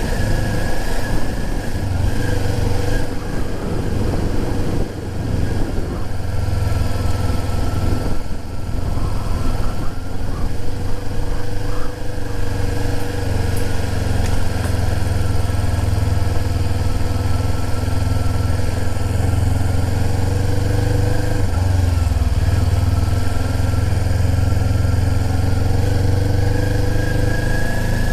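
Motorcycle engine with its stock exhaust, running steadily at low speed, its note rising and falling a little with the throttle.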